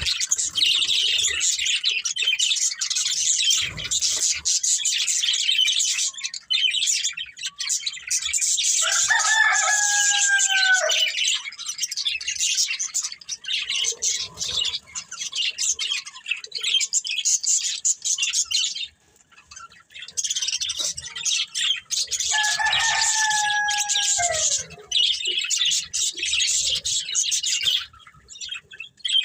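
Budgerigars chattering and chirping almost without pause in quick, high, scratchy bursts, broken by a short lull about two-thirds of the way through. Twice, about nine and twenty-two seconds in, a longer, lower call of about two seconds sounds under the chatter and drops in pitch at its end.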